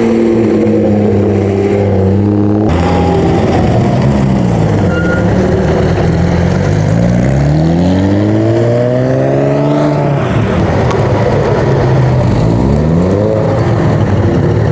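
Car engines running steadily, with one revved up and let back down about eight seconds in and another short rev near the end.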